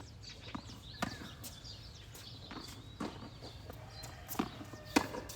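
Tennis rally: a ball struck by rackets and bouncing on the court, a handful of sharp pops one to two seconds apart, the loudest near the end.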